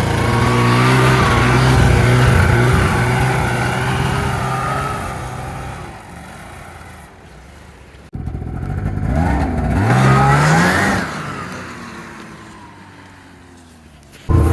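Snowmobile engine revving hard and dying back twice while the sled is stuck in snow. The second rev climbs in pitch before fading. The sound jumps abruptly about eight seconds in, and again near the end into steady engine running.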